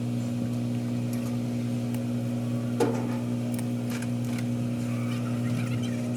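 Vehicle engine running at a steady speed, an even hum with one brief knock a little under halfway through.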